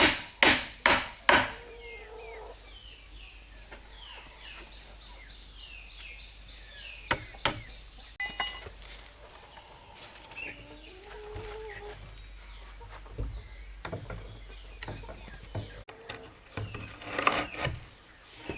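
Rapid blows on wood, about three a second, that stop about one and a half seconds in. Then birds chirp against a background with scattered knocks and taps.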